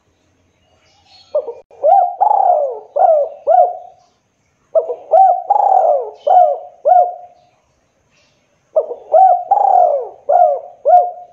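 Spotted dove (tekukur) cooing: three repeated phrases of about five coos each, a second or so apart.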